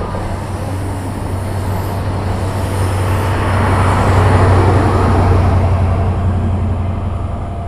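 A train moving through the station with a steady low engine hum and wheel noise, growing louder to a peak about halfway through and then fading as it goes by.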